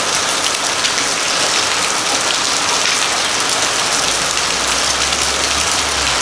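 Steady rain falling, with a dense spatter of small drop impacts close by.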